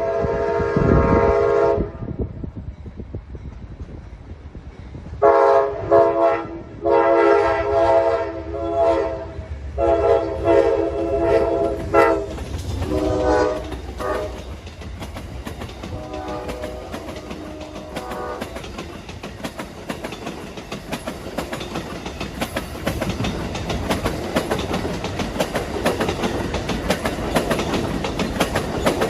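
Amtrak locomotive's multi-chime air horn: a blast ending about two seconds in, then after a pause a string of long blasts and two short ones, and a fainter blast a little later. The train then passes close by, with a steady rapid clatter of wheels over rail joints.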